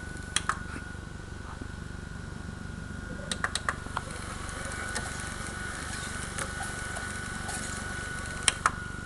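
Steady low hum with a faint high-pitched whine from a running VCR, with a few light clicks about half a second in, a quick cluster of clicks around three and a half seconds in, and two more near the end.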